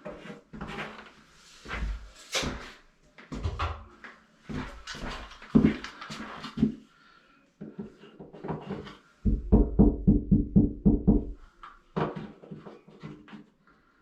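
Hand-tool work on a drywall wall: scattered knocks and scrapes, then a quick run of about ten sharp strokes in two seconds.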